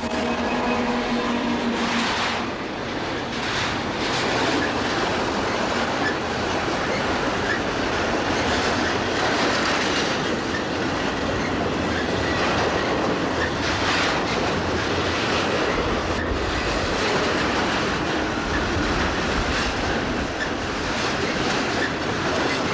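Santa Fe intermodal train rolling past close by: the flatcars' wheels clack over the rail joints in a steady rushing noise, with a little wheel squeal. A steady tone from the GP60 locomotives dies away about two seconds in.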